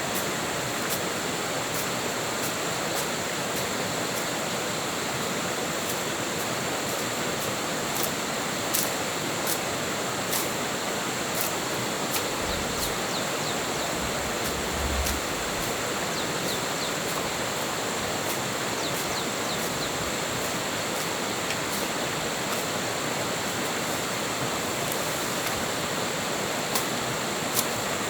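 Steady rushing of a jungle stream's flowing water, with faint high ticks scattered through it and a brief low rumble about halfway through.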